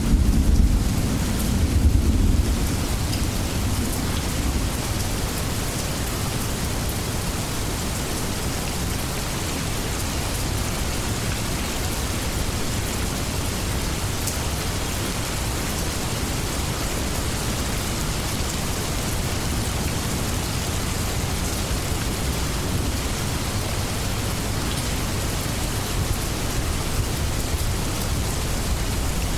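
Steady heavy rain falling, with a low rumble of thunder dying away in the first two or three seconds.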